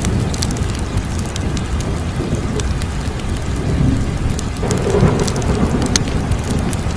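Fire crackling: scattered sharp pops and snaps over a steady low rumble, with a brief swell about five seconds in.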